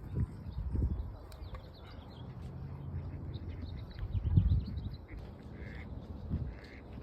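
Waterfowl calling at a lake, with two short calls near the end and small birds chirping, over a low uneven rumble of wind buffeting the microphone that is loudest about four seconds in.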